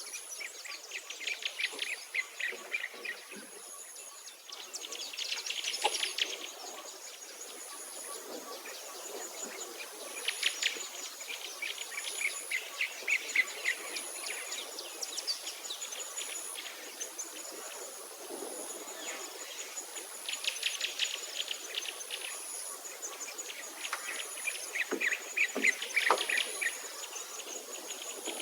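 Woodland birdsong: fast trilled phrases repeat every few seconds. Behind them a high, thin insect buzz pulses about once every second and a half.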